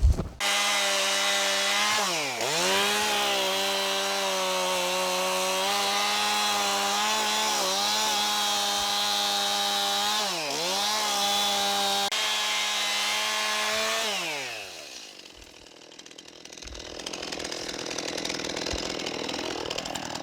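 Gas chainsaw running at high revs, its pitch dipping sharply and recovering twice. About fourteen seconds in the throttle is let off and it winds down, leaving a quieter steady hum.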